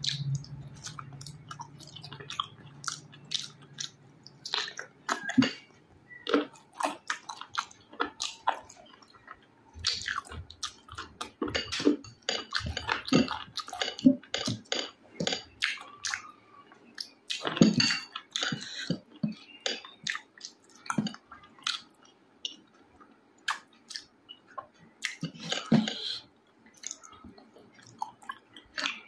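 Close-miked eating of rice and curry: wet chewing and lip-smacking, with irregular clicks and squelches.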